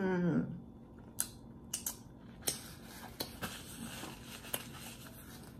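Close-miked eating sounds of a person chewing meat: soft mouth smacks with a few sharp clicks spaced about a second apart.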